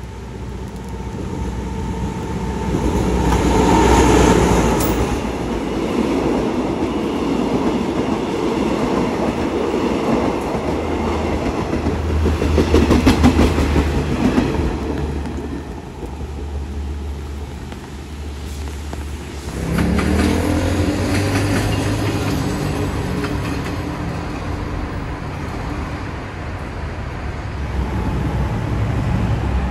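Train running, its noise swelling twice, about four and about thirteen seconds in. About twenty seconds in, an engine note rises in pitch as the engine revs up, then holds steady.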